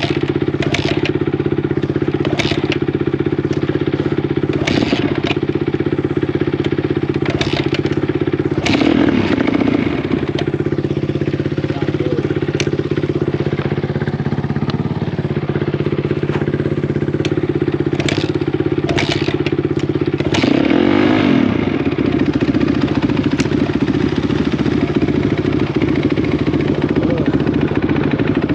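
Dirt bike engine running hard at a fairly steady speed, with a rise and fall in revs about 9 seconds in and again about 21 seconds in. Sharp clicks and knocks are scattered throughout.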